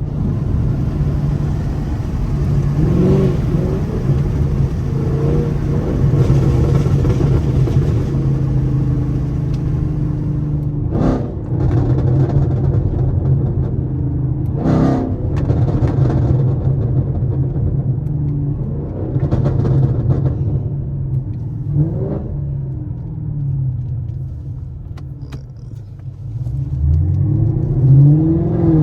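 Chevrolet Camaro SS's V8 running steadily under way, with a few brief knocks. Near the end the engine note rises as the car accelerates.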